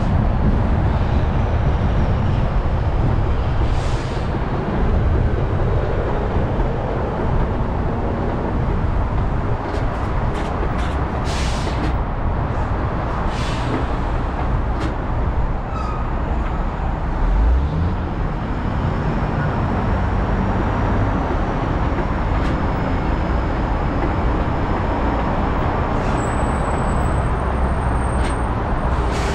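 Steady road noise of a car driving on a freeway: tyre roar and engine hum, with a few short hissing swells from passing traffic.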